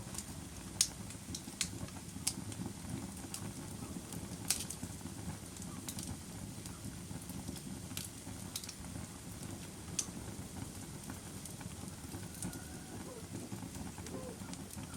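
Fire crackling: sharp, irregular pops and snaps, a few seconds apart, over a steady low rush of burning.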